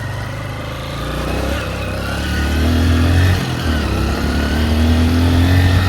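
Honda XR150L's single-cylinder engine pulling under acceleration while riding, its pitch rising, dropping briefly a little past halfway as it shifts up, then rising again, with wind rushing over the microphone.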